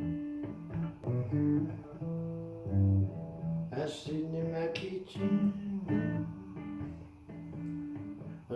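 Acoustic guitar playing a blues intro: picked single notes and a few strummed chords over a repeating low bass note.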